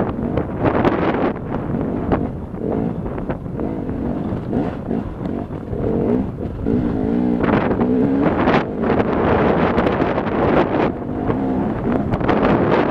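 Enduro motorcycle engine pulling the bike uphill over rough ground, its revs rising and falling as the throttle is worked, with wind noise on the microphone.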